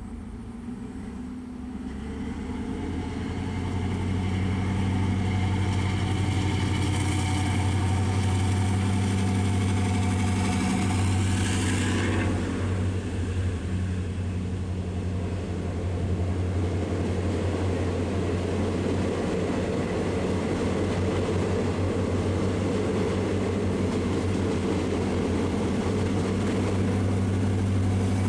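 Indian Railways diesel multiple unit passing close by. Its diesel engine drones steadily and grows louder over the first few seconds, with a whining note on top that cuts off about 12 seconds in as the front power car goes past. Then the rumble of the coaches' wheels on the rails runs on under the engine drone.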